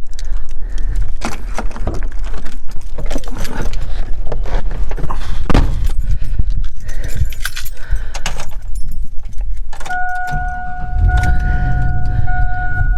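Keys jangling with clicks and rattles. About ten seconds in a steady electronic tone starts, and a vehicle engine starts with a low rumble.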